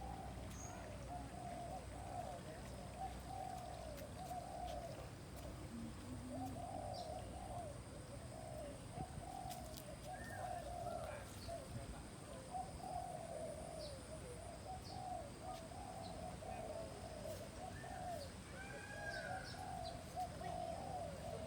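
A chorus of birds: many overlapping low calls going on without a break, with a few short higher calls now and then.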